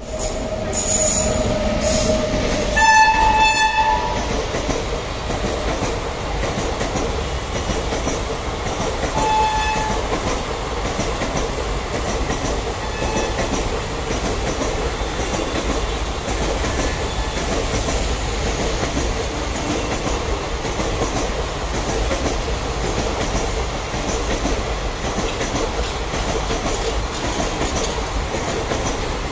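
An electric locomotive-hauled train of vans rolls past at speed, with a steady rumble and wheel clatter. A horn sounds twice in the first few seconds, the second blast louder, and once more briefly about nine seconds in.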